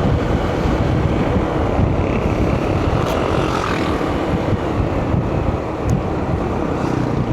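Steady engine drone of a vehicle on the move, with wind rushing over the microphone.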